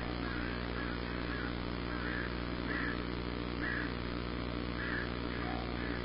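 A bird outside the nest giving short calls over and over, roughly once or twice a second at an uneven pace, over a steady low hum.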